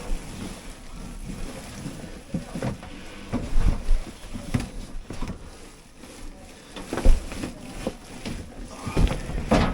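Irregular knocks and rubbing over a low rumble, with the loudest knocks about seven seconds in and near the end.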